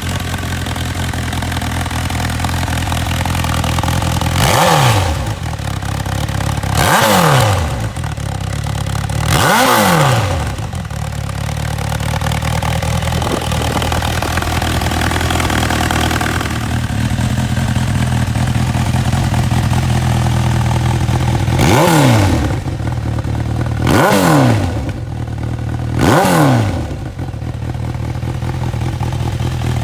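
Honda CB1000R inline-four running through a full titanium aftermarket exhaust, idling steadily, blipped in six short revs that rise and drop straight back to idle: three about two and a half seconds apart in the first ten seconds, then three more about two seconds apart after a long idle.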